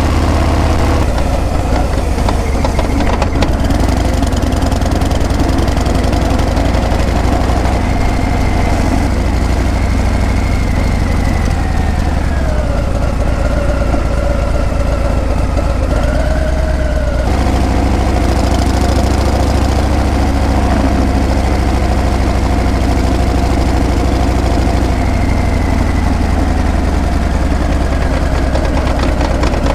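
Harley-Davidson Breakout's V-twin engine and exhaust running steadily while riding. The engine note drops about twelve seconds in, then changes abruptly near seventeen seconds, like a change of speed or gear.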